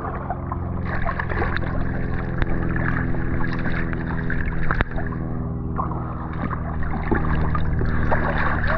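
Rushing river water churning steadily around a whitewater kayak held vertical in a stern stall.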